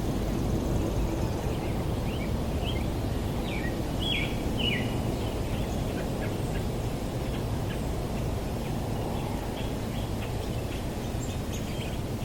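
Birds chirping in short, quick calls, busiest about four to five seconds in, over a steady low outdoor rumble.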